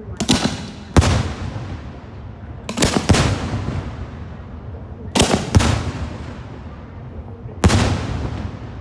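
Aerial firework shells bursting: a series of sharp bangs, some in quick pairs, each followed by a long fading rumble.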